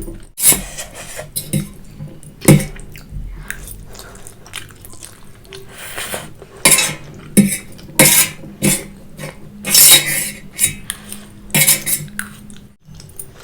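Cutlery scraping and clinking against a plate of Maggi noodles in a string of irregular strokes, some short and some drawn out, while the noodles are scooped up.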